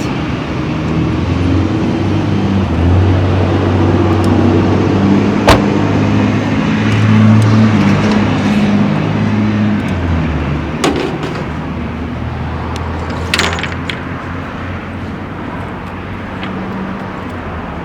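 Car engine running, stronger and changing in pitch over the first ten seconds, then settling lower and quieter. A sharp click about five seconds in and a couple of brief knocks later.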